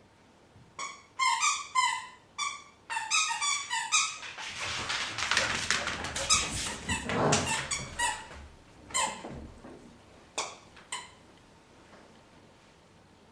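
Two dogs at play: a quick run of high-pitched yelps and squeals, then a few seconds of rougher, noisier scuffling sounds, then a few more single yelps before they stop.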